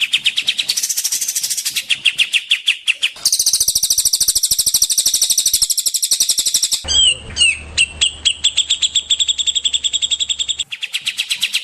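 Songbird masteran recording of cililin, cucak jenggot and kapas tembak calls. Rapid strings of high chirps, about ten a second, switch abruptly to a different call pattern every three to four seconds, as looped clips are spliced together.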